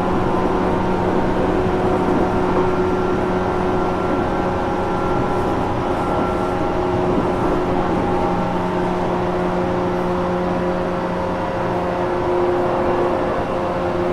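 Interior running noise of a JR Kyushu 415 series 1500-subseries electric motor car travelling at a steady speed: a low rumble of wheels on rail under several steady whining tones from the traction motors and gears. The uploader marks this car as one with an unusual running noise.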